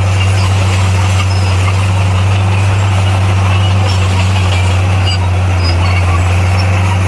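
Heavy diesel earthmoving machine engine running steadily and loudly, a constant low drone with no change in pitch.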